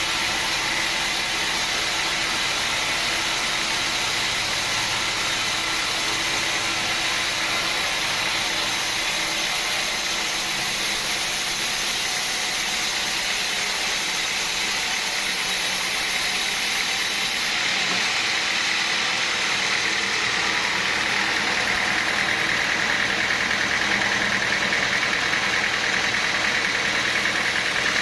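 Sawmill machinery running steadily, a constant mechanical drone with a high whine that grows a little stronger past the middle.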